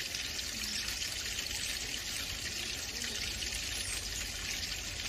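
A steady, even hiss, heard like running water, with no distinct calls standing out.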